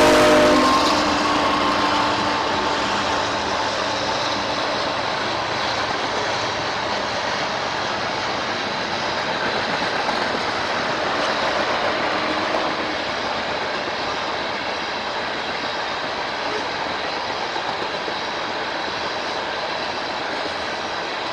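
A train's horn cuts off in the first second, then a steady rushing rumble of the train's wheels on the rails as it rolls past, easing slightly over time.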